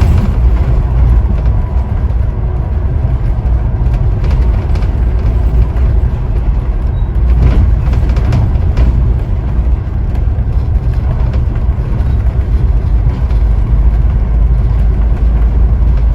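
Scania N94UD OmniDekka double-decker bus on the move, heard from inside: a steady, heavy low engine and road rumble, with a few faint knocks or rattles.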